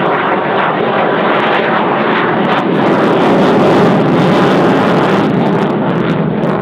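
Jet noise from a Eurofighter Typhoon's two Eurojet EJ200 turbofans as the fighter passes low and slow. The sound is loud and grows to a peak about four seconds in, then eases slightly.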